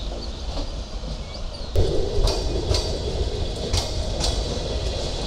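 Passenger train running slowly, wheels rumbling on the track and clicking over rail joints in pairs about a second apart. The sound gets louder about two seconds in.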